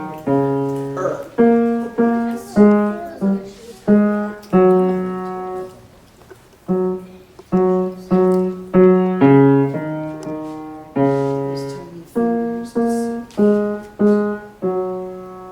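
Piano played by a child, a simple melody mostly one note at a time with some chords. It pauses briefly about six seconds in and ends on a held note that dies away.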